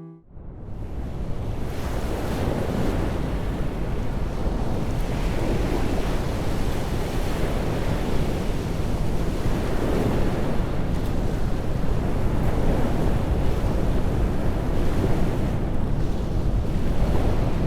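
Wind blowing across the microphone over a steady rush of water, fading in over the first second or two.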